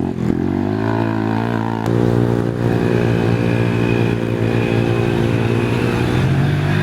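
Small ATV engines of youth micro-class quads running and revving, with engine pitch rising in the first second and then holding fairly steady.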